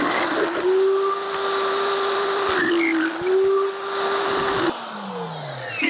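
High-speed power cutting tool cutting sheet-steel patch pieces: a steady whine over a harsh cutting hiss, the pitch sagging briefly about three seconds in as the wheel loads up. Near the end it is switched off and spins down with a falling whine.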